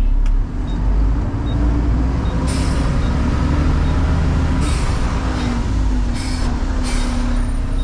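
Diesel truck engine and road noise while driving, the engine pitch slowly rising and falling, with a few short hisses. The truck is in the middle of a diesel particulate filter regeneration.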